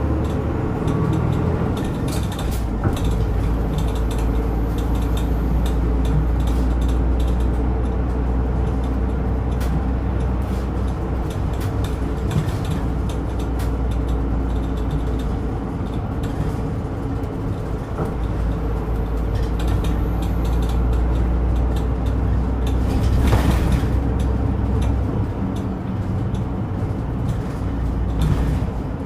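Interior of a route bus under way: a steady engine drone with road and body noise, a few small rattles, and a short hiss about three-quarters of the way through.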